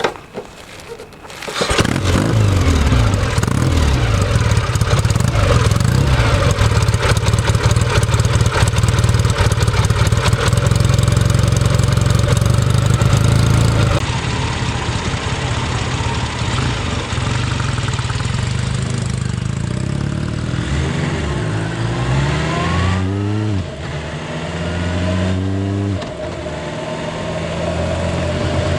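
Restored Kawasaki W1's air-cooled parallel-twin engine starts about two seconds in and runs with a loud, even beat. Later it revs up in rising sweeps that drop off sharply twice, then settles to a steady run.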